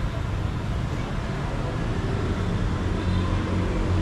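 Motor traffic on a city street: a steady low engine rumble, growing a little louder from about halfway.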